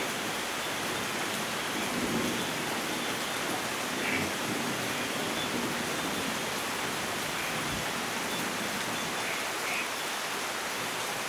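Steady, even rainfall in a rainforest, a continuous hiss of rain on foliage and ground.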